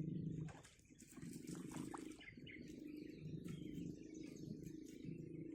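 Repeated low pitched animal calls pulsing on and off, with faint bird chirps higher up.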